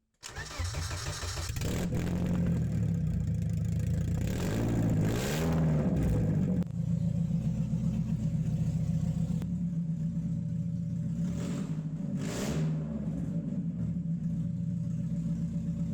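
BMW E36 compact's four-cylinder engine idling, blipped up in revs about five seconds in and again more briefly about twelve seconds in.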